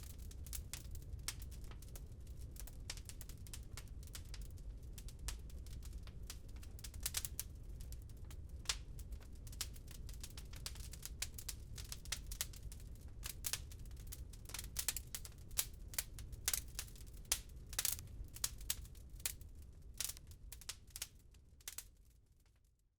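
Wood fire crackling in a fireplace: irregular sharp pops and snaps over a steady low rumble. The crackles grow denser and louder about two-thirds of the way in, and everything fades out just before the end.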